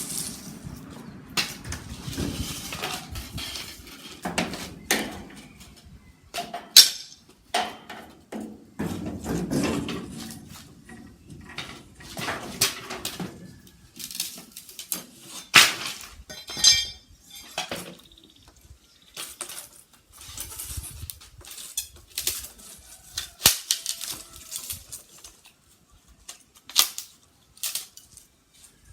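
Irregular sharp knocks and clinks of hard objects being handled and set down, some close and loud, with scuffing in between.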